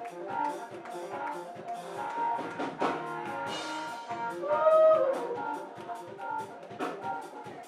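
Live church praise band playing, with drum kit strikes keeping a beat under held keyboard and instrument notes, and a loud note bending in pitch about halfway through.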